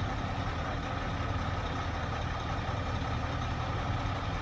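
CAT 323 excavator's diesel engine idling with a steady low hum.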